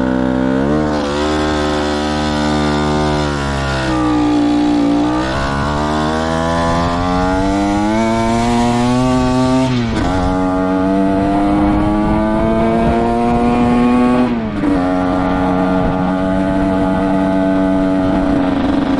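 Derbi Senda motorcycle engine under way on the road, its pitch dipping, then climbing steadily before dropping sharply at gear changes about ten seconds in and again near fifteen seconds. The engine has just had its carburettor adjusted and is running a bit better.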